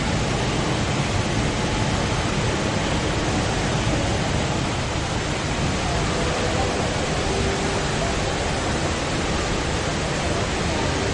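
Steady rushing roar of a large indoor waterfall, the Rain Vortex's water falling into its basin.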